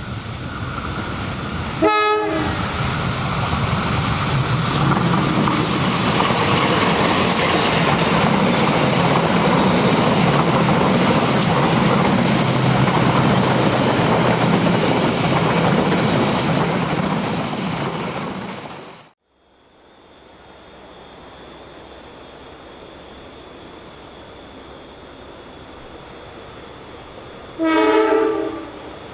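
Diesel-hauled passenger train running past close by with steady wheel-and-rail noise, and a short blast of the locomotive's horn about two seconds in. The train noise fades, then after a break a second horn blast of about a second comes near the end: the Semboyan 35 horn signal.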